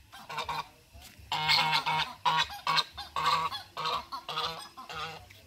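White domestic geese honking repeatedly in a quick series of short, loud calls.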